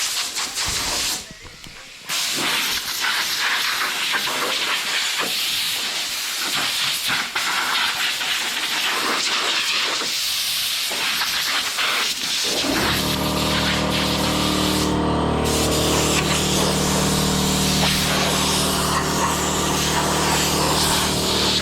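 Compressed air hissing from an air-hose blow gun as it blows mud and water off an RC car, with a short pause about a second in. A little past halfway, a steady motor hum starts under the hiss and keeps running.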